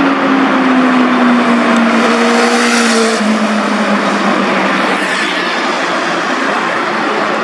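Superbike engine and exhaust passing by at speed, its note slowly falling in pitch with a step down about three seconds in.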